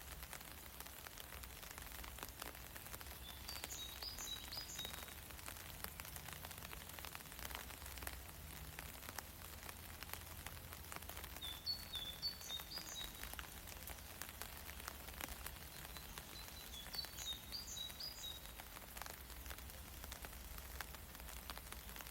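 Light rain falling steadily, with many small drops pattering. A bird sings a short phrase of a few high notes three or four times, roughly every five to eight seconds.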